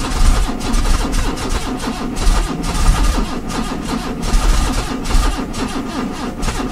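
A Nissan Tino's petrol engine turning over on its starter in hard frost in an even rhythm without catching; petrol left standing in the cylinders is taken to be wetting the plugs. Strong wind rumbles on the microphone.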